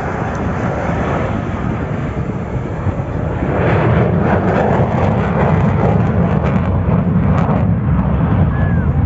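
Jet aircraft flying over with a loud, steady roar that swells about three and a half seconds in and stays loud.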